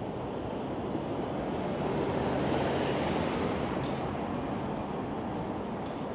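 Steady rushing noise of wind and passing street traffic, swelling about two to three seconds in and easing again.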